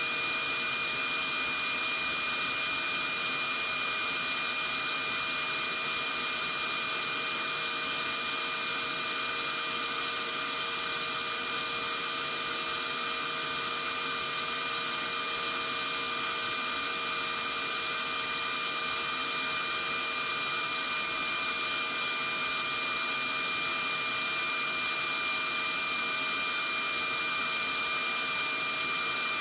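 Vacuum cleaner running steadily: an even rushing hiss, heaviest in the upper range, with a constant motor whine.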